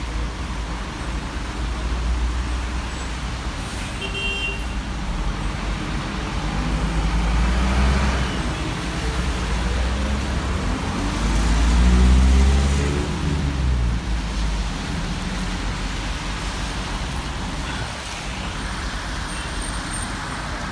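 Road traffic on a rain-soaked street: a steady rush of vehicles, with two heavier vehicles passing about eight and twelve seconds in, their engine pitch sliding as they go by; the second pass is the loudest.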